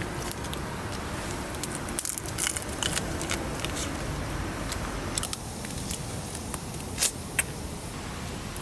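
Crackling and sizzling from cooking over a campfire, with scattered small clicks and two sharper cracks about seven seconds in.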